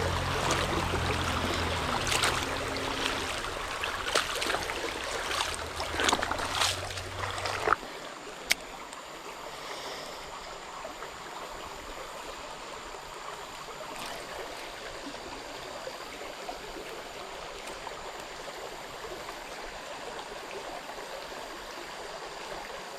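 Small creek flowing steadily over rocks. For about the first eight seconds it is louder, with knocks and rustling close to the microphone that stop abruptly.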